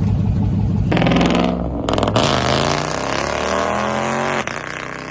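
Performance car engine idling, then revved hard, with a second sharp blip about a second later. The engine note then falls away over the next couple of seconds.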